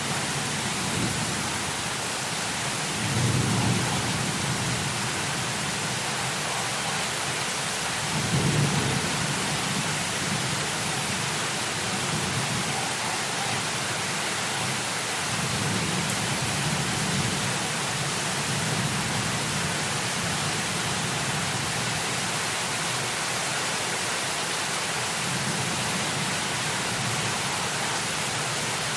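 Steady heavy rain hiss with low rolling thunder rumbles that swell about three seconds in, again about eight seconds in, and more softly between fifteen and eighteen seconds.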